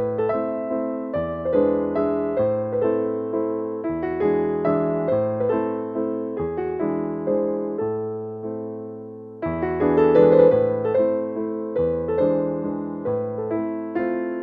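Background piano music: a steady flow of struck, decaying notes over changing bass notes, growing louder about two-thirds of the way through.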